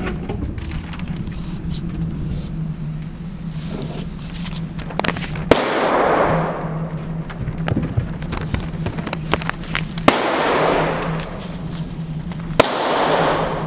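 Gunshots at an indoor shooting range: three loud shots a few seconds apart, about five and a half, ten and twelve and a half seconds in, each followed by about a second of echo ringing around the range. Fainter shots and clicks come in between.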